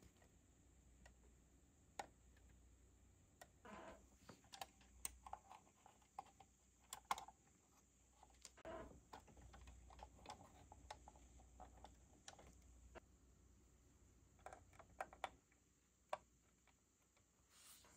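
Faint, irregular clicks and taps of small plastic model-car kit parts being handled and pressed into place, over quiet room tone.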